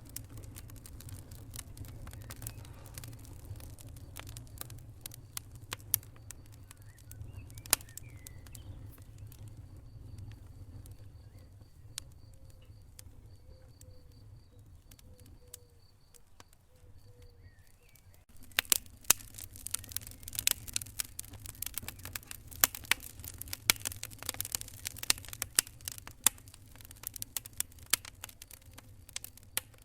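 Wood fire in a fireplace crackling: a low rumble with scattered pops at first, then a dense run of loud snapping crackles starting about two-thirds of the way through.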